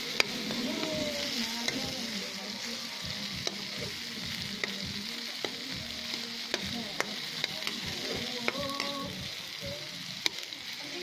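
Chopped tomato and onion sizzling in oil in a metal wok, with a steady hiss. A metal spoon stirs them, clicking and scraping against the pan at irregular moments.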